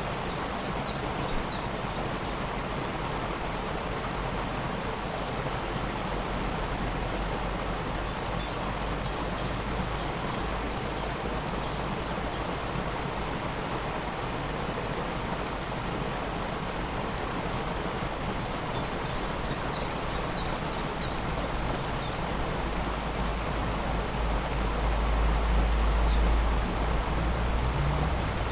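A waterfall's steady rush of falling water. A small songbird sings a quick run of short high notes four times over it, and a low rumble swells in the water noise near the end.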